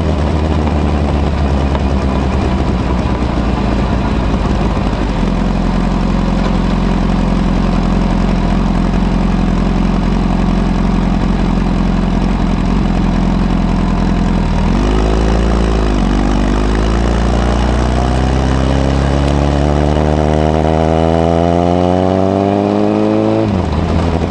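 Honda CBR1000RR's inline-four engine running through a modified Moriwaki exhaust with the baffle fitted, under way. It holds a steady note, dips briefly and recovers about two-thirds of the way in, then revs rise steadily under acceleration until a sharp drop near the end, an upshift, after which they climb again.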